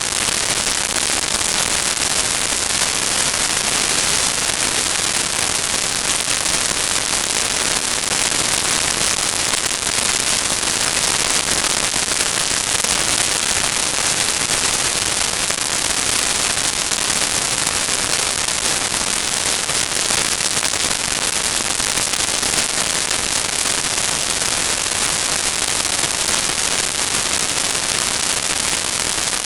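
Steady, loud crackling hiss like static, unchanging throughout, with no engines, crashes or voices standing out.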